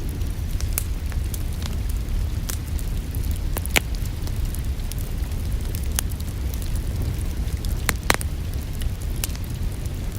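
Wood fire in a fireplace crackling steadily over a low, even rumble, with irregular sharp pops. The two loudest pops come about four and eight seconds in.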